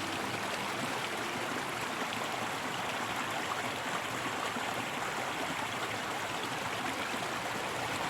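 A stream of running water, flowing with a steady, even rush. A faint music note lingers briefly near the start.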